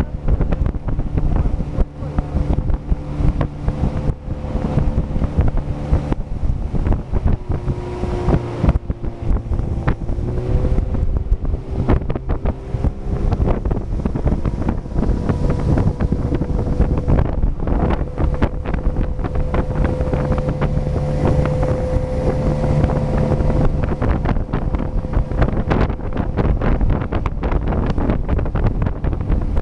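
Motorboat engine running steadily at speed, with heavy wind buffeting on the microphone.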